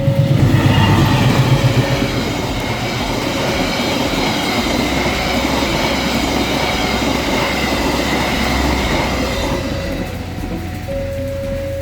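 A train passing over a level crossing: a low rumble at first, then the running noise of wheels on rail with a steady high wheel squeal, dying away about ten seconds in. The crossing's two-tone warning signal comes back as the train clears.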